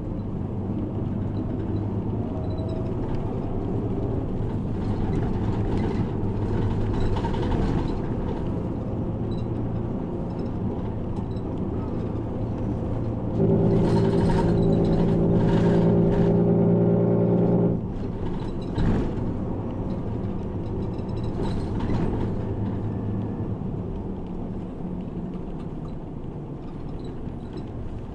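Route bus running on the road, heard from inside the cabin: a steady engine hum and road noise that rise and fall. About halfway through, a louder steady droning tone holds for about four seconds, then cuts off suddenly.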